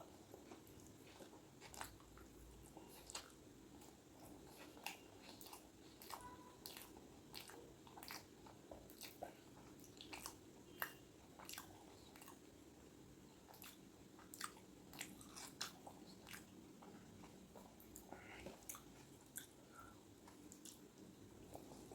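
A person chewing and biting food close to the microphone. The sound is a steady run of irregular, sharp mouth clicks over a faint background hiss.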